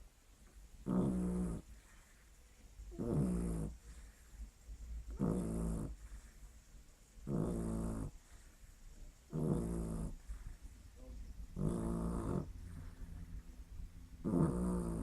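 A pet dog snoring in its sleep: seven regular snores, about one every two seconds, with a faint hiss between them.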